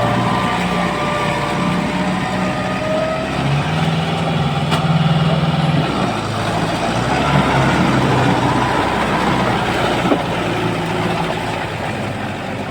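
Kubota MU5502 tractor's diesel engine running in a mud-stuck field, its engine speed shifting up and down several times. There is a single sharp click a little after four seconds in.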